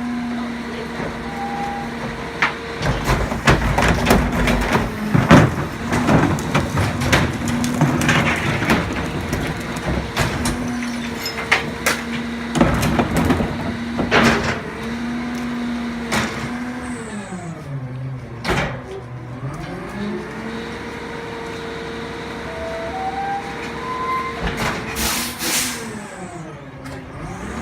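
Garbage truck running with its engine held at a steady raised speed, amid repeated bangs and clatters of metal. About seventeen seconds in, the engine pitch drops and then climbs back.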